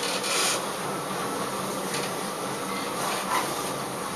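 Sanriku Railway diesel railcar running on the track, heard from inside the cab: a steady running noise with a short hiss about half a second in and a light click near the end.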